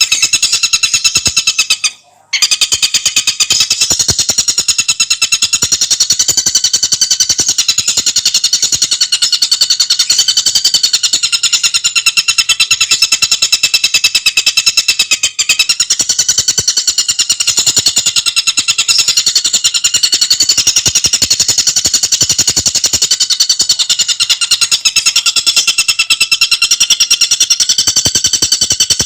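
Tengkek buto singing a fast, continuous, high rattling trill of rapidly repeated notes, with a brief break about two seconds in.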